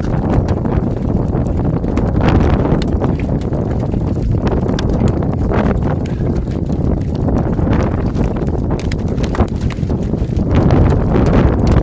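Hailstones pelting a car's roof and windows: many irregular hard knocks over a steady loud rumble.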